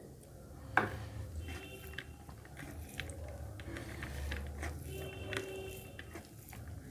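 Close-up mukbang eating sounds: wet chewing and squishing of mutton curry and rice, with scattered small mouth clicks and one sharp click about a second in.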